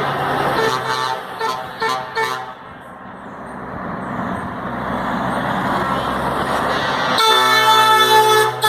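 Trucks driving past with their engines and tyres rising as they come near, a few short horn toots in the first two seconds, then a lorry's air horn blasting loud and long from about seven seconds in, with a brief break near the end.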